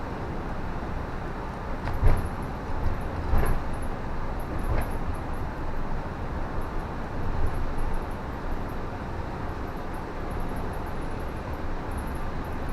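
Car driving on a wet road: steady road and tyre noise, with three brief thumps at about two, three and a half and five seconds.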